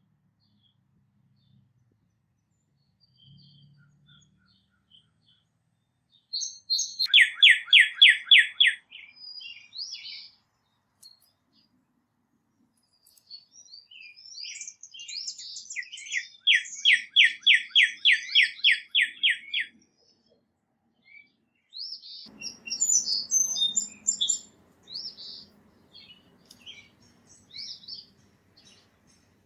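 Small songbirds singing: two loud trills of quickly repeated down-slurred notes, with scattered short chirps and calls between them. A faint low rumble comes in about two-thirds of the way through.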